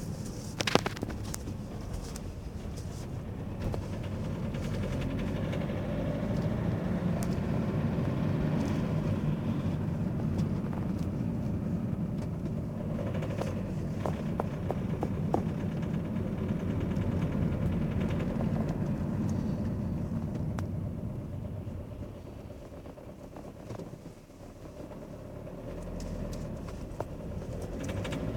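Mazda 6 running, a continuous low rumble that swells, eases off to its quietest a few seconds before the end and then builds again, with a few sharp clicks along the way: the strange noise the owner is trying to capture, not identified.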